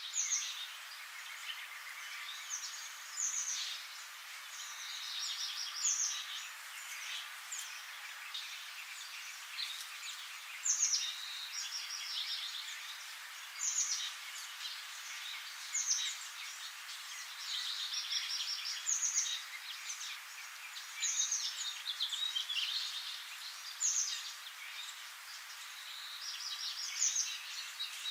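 Songbirds singing: short high chirps and quick trills repeated every two or three seconds, several songs overlapping, over a steady faint hiss.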